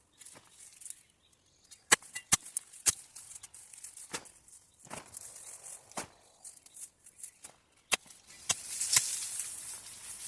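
A root-cutting spade with a sharpened edge and serrated sides chopping into soil and roots: a string of sharp cuts at uneven intervals with small scuffs between, then a longer scraping rush of soil near the end.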